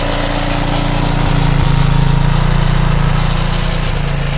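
230 cc motorcycle engine, freshly re-ringed and honed, idling steadily, running a little harder from about a second in and easing back toward the end.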